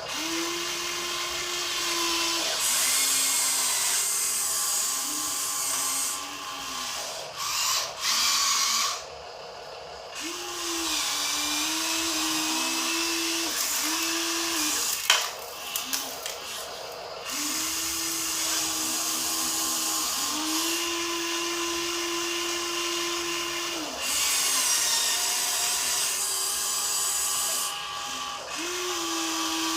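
Electric drive motors and gearbox of a Huina RC dump truck whining in repeated runs that start and stop with short pauses, the pitch stepping between two levels. A sharp click comes about halfway through.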